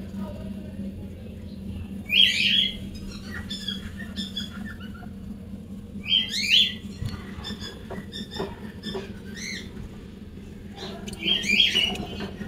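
Bird squawking loudly three times, about two, six and eleven seconds in, with weaker chirps between, over a steady low hum.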